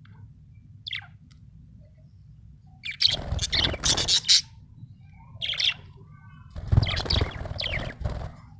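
Budgerigar chirping: a single short chirp about a second in, then two busy bursts of happy chirping and chatter of a second or so each, with a brief call between them. A steady low hum sits underneath.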